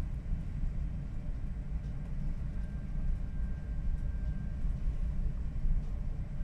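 Strong typhoon wind buffeting the microphone: a steady, unbroken low rumble that wavers in loudness.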